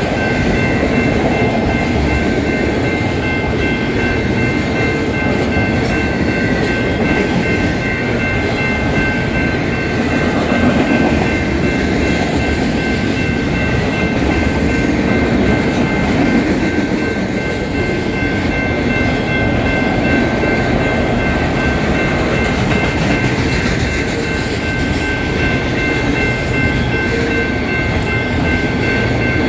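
Freight train of autorack cars rolling past: a steady rumble and clatter of wheels on rail, with a few steady high ringing tones held over it.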